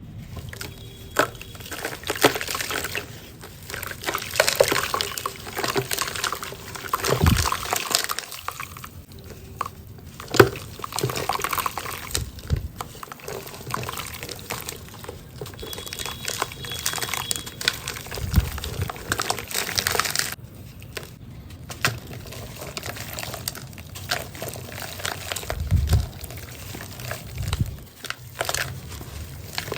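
Crumbly cement being broken up with water, giving a dense run of crackling and fine crumbling with wet, pouring sounds. A few soft low thuds fall in, near a quarter, two-thirds and the end.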